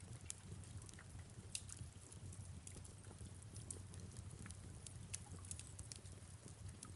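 Faint fireplace crackling: irregular sharp snaps and pops over a low, steady rumble and a soft hiss of rain.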